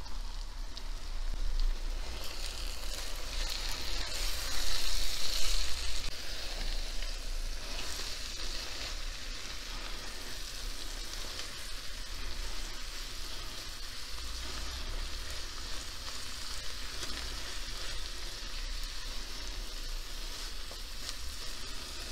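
Mixed wild greens frying in olive oil with onions and peppers in a non-stick pan over lowered heat, a steady sizzle while the leaves wilt. The sizzle swells for a couple of seconds about four seconds in, and a silicone spatula stirs and turns the greens.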